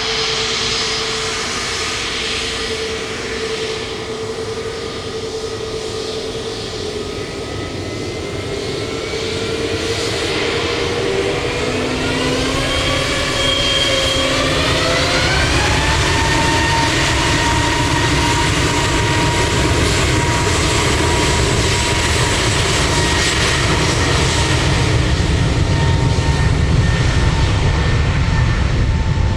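Jet airliner engines spooling up: several whining tones rise in pitch together about midway, then hold steady under a louder, deeper rumble of engine noise.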